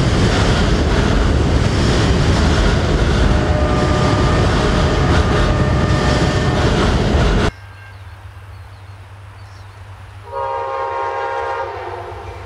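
CSX business-car passenger train rolling across a bridge, its wheels clattering on the rails with a faint steady tone over it midway; the sound cuts off abruptly about seven and a half seconds in. After a short stretch of low hum, an approaching Amtrak train sounds its horn for about a second and a half near the end.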